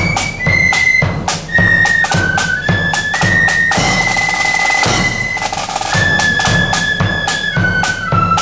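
Marching flute band playing a tune: a single line of high flute notes stepping from note to note over a steady beat of bass and snare drums.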